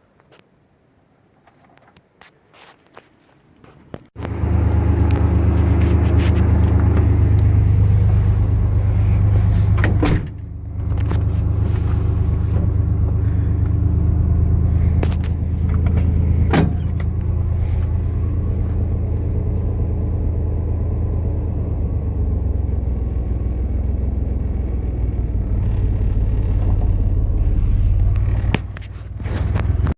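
A vehicle engine running steadily and loudly, coming in suddenly about four seconds in, dipping briefly around ten seconds, with a couple of sharp clicks, and dropping away just before the end.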